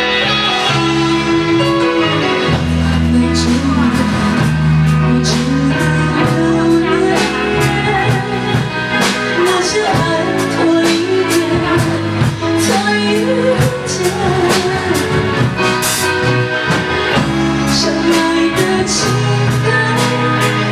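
Live band music: guitar chords over drums keeping a steady beat.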